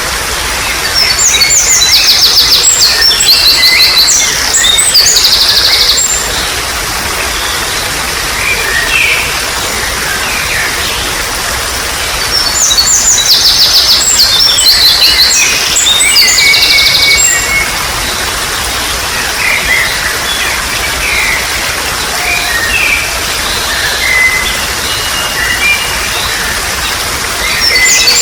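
Steady trickling water with wild birds chirping over it. Two long spells of rapid, high, repeated chirps come about a second in and again about halfway, with scattered shorter calls between them and near the end.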